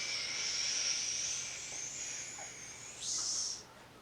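A person making a long hissing 'sss' with the mouth to imitate a sound, which a listener guesses to be peeing. The hiss holds steady and stops abruptly near the end.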